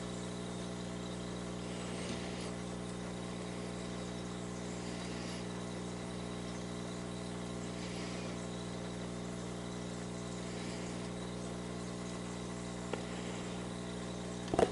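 A motor humming steadily at one unchanging pitch, with a faint high hiss over it.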